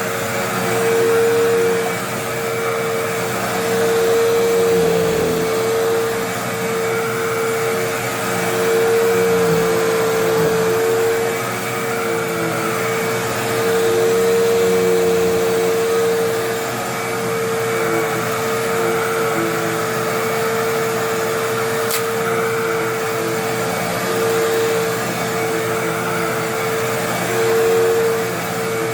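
Bagless upright vacuum cleaner running with a steady motor whine, getting louder and softer every few seconds as it works over the debris. A single sharp click about two-thirds of the way through.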